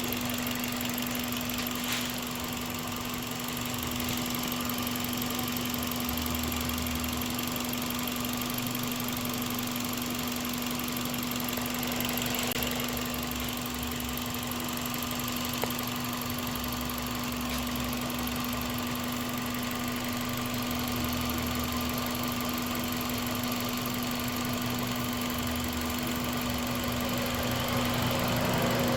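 Toyota Vios car engine idling steadily, with a constant hum and no revving.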